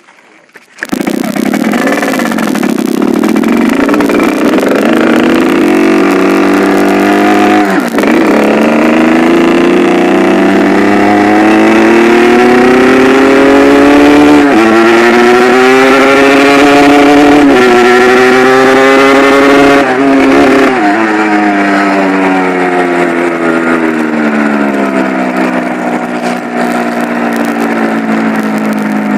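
Yamaha RX-King's 135 cc two-stroke single-cylinder engine riding away and accelerating through the gears, its note climbing and dropping sharply at three gear changes, then falling as the bike slows. The carburettor is set for the growly "ngorok" exhaust note while staying economical on fuel.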